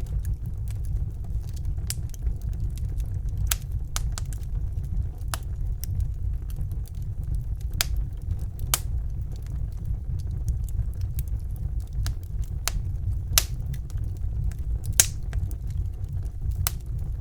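Wood fire burning in a fireplace: a steady low rumble of the flames with irregular sharp crackles and pops, a few louder snaps near the end.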